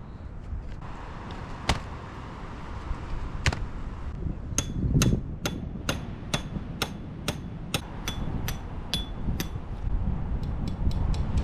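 Hammer striking metal: two single blows, then from about halfway a steady run of about three to four blows a second, each with a short metallic ring.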